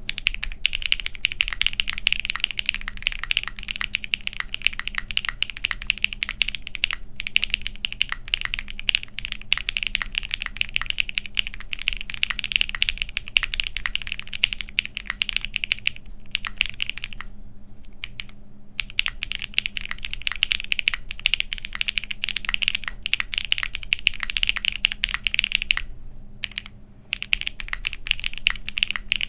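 Fast continuous typing on a plateless, gasket-mounted Vega 65% custom mechanical keyboard with Botanical Creampaca (JWK) linear switches and GMK Botanical keycaps, giving a soft, deep bottom-out. The typing pauses briefly about seventeen seconds in and again near the end.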